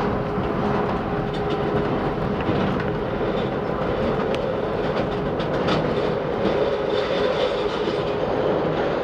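CTA elevated 'L' train cars running along the track: a steady rumble of wheels on rail with a few sharp clicks from the rail joints.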